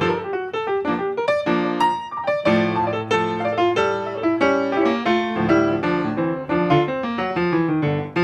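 Piano playing a hymn arrangement: a continuous passage of chords under a melody line, with notes struck and left to ring.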